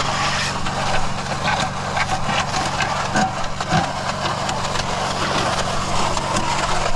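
Small engine of a Mud Mixer portable concrete mixer running steadily, with scattered knocks and scrapes on top.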